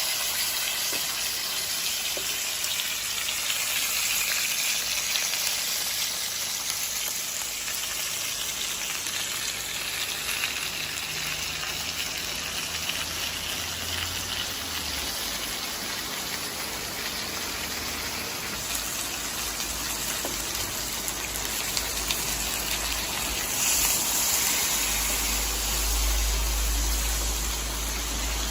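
Beef rib steak sizzling in a hot frying pan, a steady hiss.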